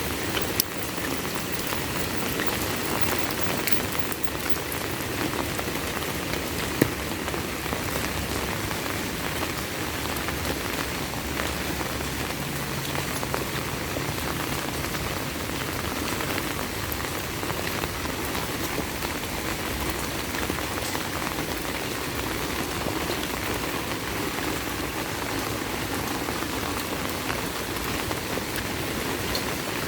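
Heavy rain falling steadily, an even hiss of drops, with a few sharp ticks of single drops; the loudest comes about seven seconds in.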